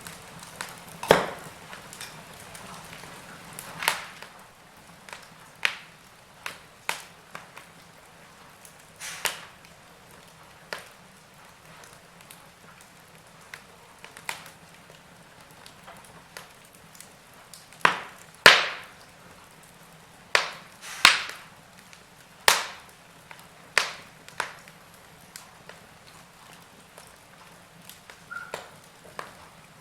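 Wood fire crackling in a fireplace: irregular sharp pops and snaps over a soft hiss. A cluster of loud cracks comes about two-thirds of the way through.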